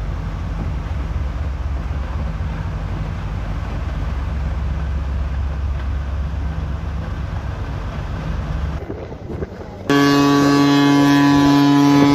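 Low steady rumble, then about ten seconds in a loud, steady, deep blast of a ship's horn that holds one pitch for several seconds.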